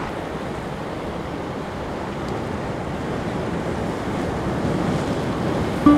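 Steady wash of sea waves against a concrete breakwater, with wind on the microphone, slowly getting a little louder.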